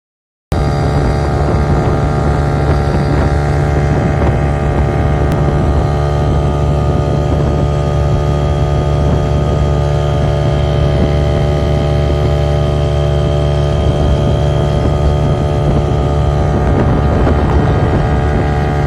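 A boat engine running steadily at a constant speed, a deep even hum with an unchanging drone above it.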